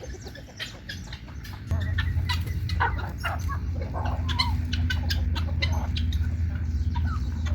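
Chickens clucking in short, scattered calls, over a low steady rumble that starts about two seconds in.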